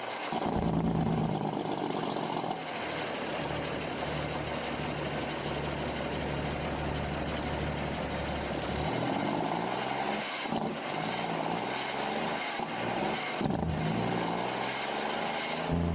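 Straight-piped heavy truck's diesel engine running, steady at first, then rising and falling in pitch repeatedly from about halfway through.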